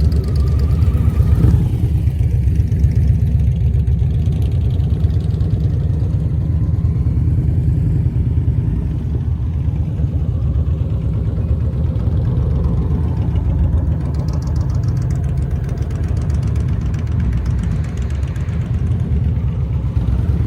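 Motorcycle engine running steadily at low speed, a low, even rumble with no sharp changes in pace.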